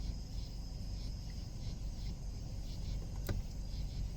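Steady high-pitched chirping of insects, with a single sharp click about three seconds in.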